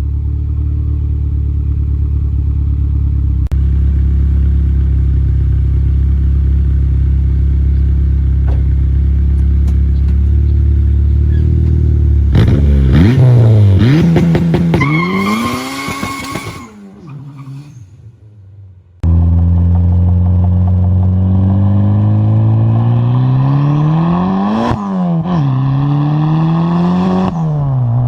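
Honda Accord four-cylinder engine heard through a Ktuned 3-inch turn-down cat-back exhaust. It idles steadily at first, then revs up and down a few times about halfway through and fades away. It comes back suddenly with more rises and falls in revs near the end.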